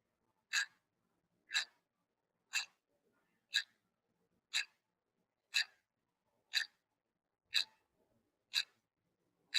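Clock-tick sound effect: a short, sharp tick exactly once a second, about ten in a row. It is a countdown timer running while the quiz question waits for its answer.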